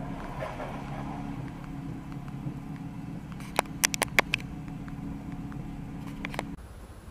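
Steady low hum of a car engine idling, heard inside the stopped car's cabin. A quick run of sharp clicks comes a little past halfway, and two more shortly before the hum cuts off suddenly.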